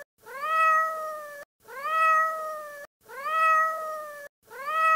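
A domestic cat meowing four times, the same meow repeated about every 1.4 seconds; each call rises briefly at the start, then holds level for about a second.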